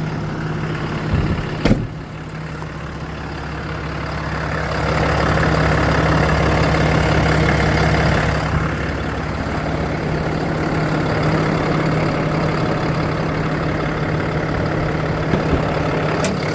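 2017 Dodge 5500 truck engine idling steadily while it warms up, with a sharp click about two seconds in and another near the end.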